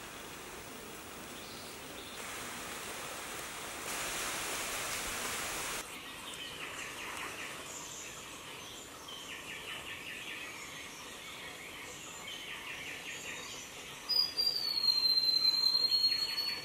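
Forest ambience: a steady hiss with short, rattling bird trills from about a third of the way in, then a loud, high, steady whistled call that falls slightly in pitch and lasts about two and a half seconds near the end.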